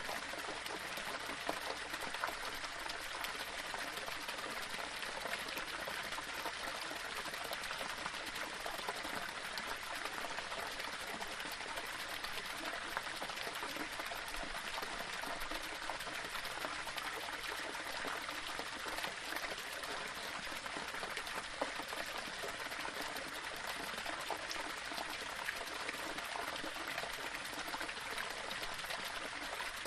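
Small waterfall running steadily over rocks: a continuous splashing, bubbling rush of water with small splashes throughout.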